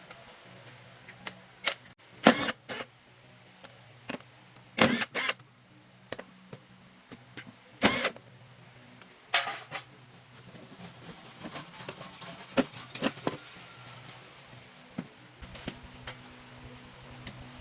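Irregular sharp knocks and metallic clatter from repair work on a car, about a dozen, loudest in the first half, over a faint steady low hum.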